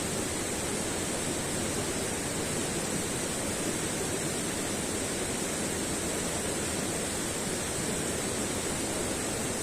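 Steady rushing noise at an even level, with no breaks, knocks or pitched sounds.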